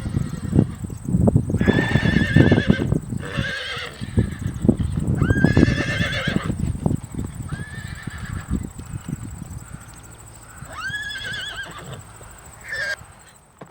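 Horses neighing, about six whinnies with a quavering pitch, over hooves clopping and stamping.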